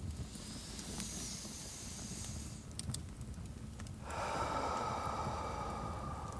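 A person takes a slow deep breath: an airy inhale lasting about two and a half seconds, then, after a pause, a longer audible exhale, over the faint crackle of a fireplace.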